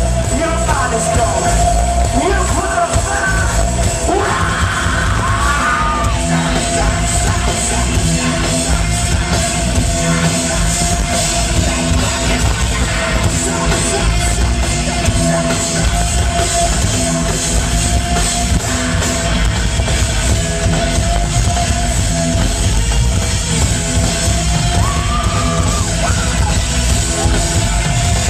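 Loud live heavy rock band playing, with yelled vocals over distorted guitars and drums, heard through a small camcorder's microphone.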